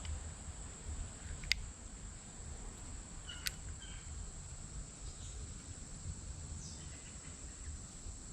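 Insects droning steadily on one high pitch, over a faint low rumble. Two short sharp clicks cut through, about a second and a half in and again a couple of seconds later.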